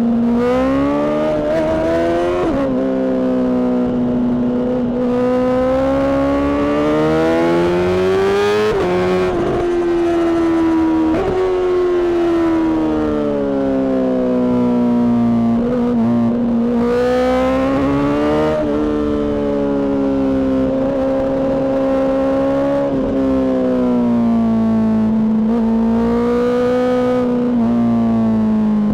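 Honda CBR600RR inline-four engine with a Mivv aftermarket exhaust, running at high revs under way. Its pitch rises and falls as the throttle is worked, climbing sharply at the start.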